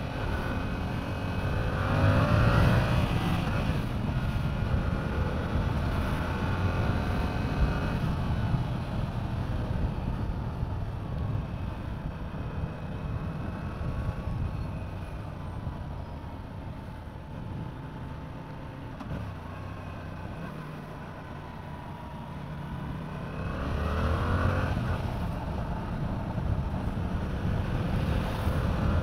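Yamaha R7's parallel-twin engine running under way, rising in pitch as it accelerates about two seconds in and again near the end, with a quieter, lower stretch in between.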